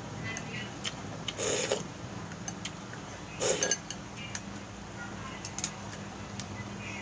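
Someone eating a bowl of instant noodles: two short bursts of eating noise about two seconds apart, with light clicks and clinks of utensils against the bowl, over a low steady hum.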